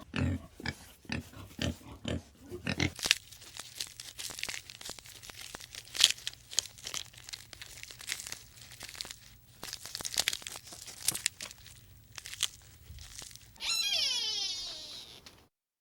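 Pig grunting in short low pulses for the first few seconds, then about ten seconds of crackly crunching and rustling. Near the end, one long cat meow that falls in pitch.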